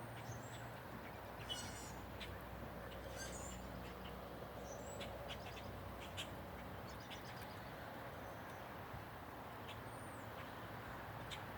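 Birds chirping and calling here and there, short high chirps and a few quick whistled glides, from a yard full of American robins after rain. A faint steady low hum lies underneath.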